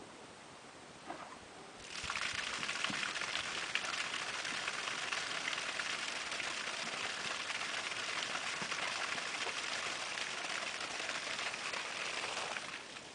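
Water gushing and splattering from a sump pump's inch-and-a-half PVC discharge while the pump runs. It starts suddenly about two seconds in, stays steady, and stops near the end.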